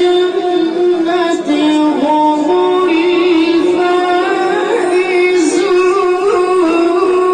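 A child's voice reciting the Quran in melodic chant, holding long notes with small ornamental turns.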